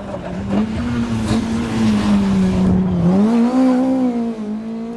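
Rally car engine running hard at high revs, its pitch holding, then dipping about three seconds in and climbing again, over a steady rushing noise.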